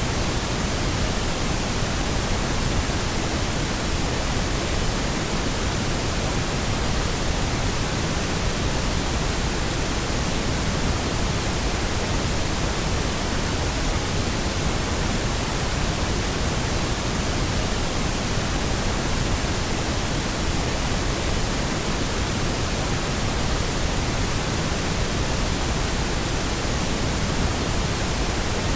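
Steady pink noise: an even, unchanging hiss spread across all pitches, generated as a sleep and masking sound.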